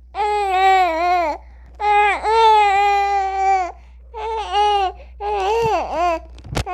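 Infant crying in four long wailing cries with short breaths between them. A sharp click comes near the end.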